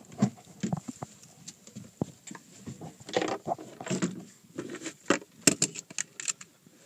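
Scattered metallic clicks, knocks and rustles of a bolt-action rifle and gear being handled between shots, with a few sharper knocks among them.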